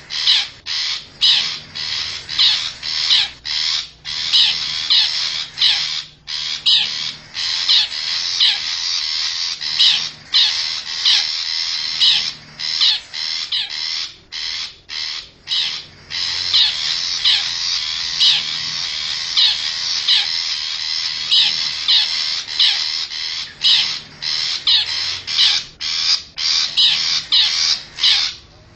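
Recorded lure call of a wild shrike (cendet): short calls repeated about twice a second in long runs, broken by brief pauses.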